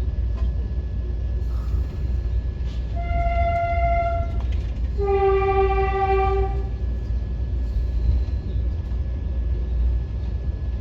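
Indian Railways train horn sounding twice, a short higher note and then a longer, lower, louder note, over a steady low train rumble.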